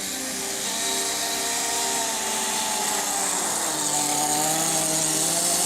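Small two-stroke nitro glow engine (Kyosho GX15) of an RC snowcat running at speed with a buzzing whine. Its pitch sags about three seconds in, then rises again near the end.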